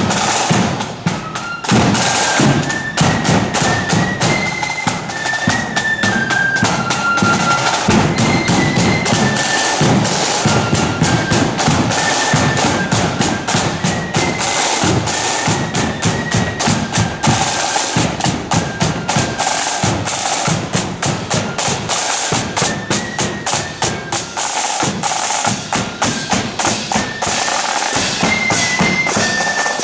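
Marching flute band playing a tune, with flutes carrying the melody over rapid snare drumming and bass drum beats.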